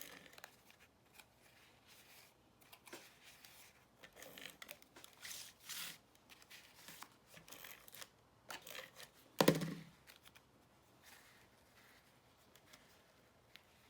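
Cardstock and paper being handled while a piece is glued down on a card: scattered soft rustles and light clicks, with one sharper knock about nine and a half seconds in.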